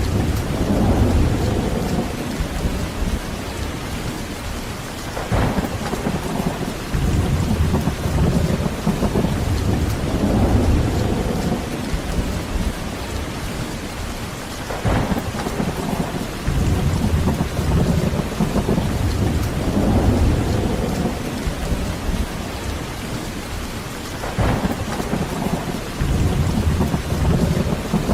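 Steady heavy rain with rolling thunder. A fresh roll of thunder opens with a sharper crack three times, about every ten seconds, each fading into a low rumble.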